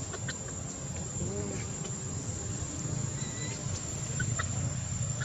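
Forest ambience: a steady, high-pitched insect drone like crickets over a low rumble, with a brief animal call about a second in and a few short chirps.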